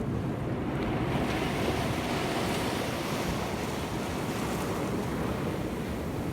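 Sea surf breaking and washing over shoreline rocks, the wash swelling about a second in.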